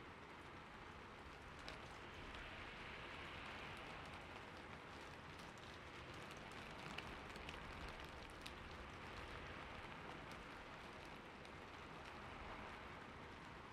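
Faint, steady splashing of running water, a fountain-like trickle with a few small drip ticks now and then.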